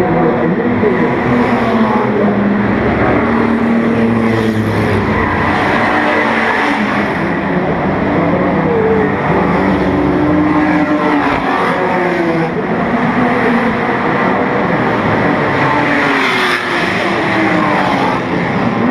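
Several 1950s sports racing cars running hard at close range, their engines rising and falling in pitch as they rev through the gears and pass, with more than one engine heard at once.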